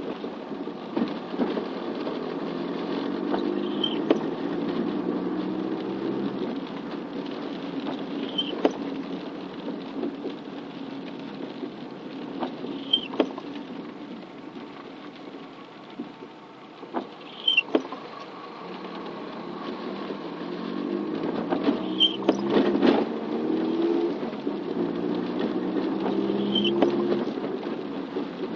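Car driving in light rain, its engine climbing in pitch as it speeds up twice. A short squeak and click repeat about every four and a half seconds.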